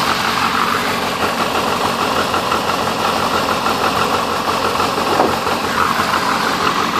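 Turbocharged 2.0-litre flat-four of a 2005 Subaru Impreza WRX, built with a stroker kit and cam, idling steadily. The engine runs rich on its tune and logs misfire codes on all four cylinders.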